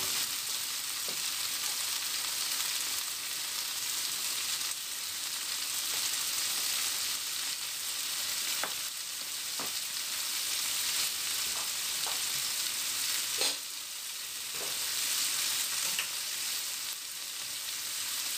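Marinated prawns sizzling in hot oil in a stainless steel wok: a steady frying hiss, with a few short sharp clicks now and then.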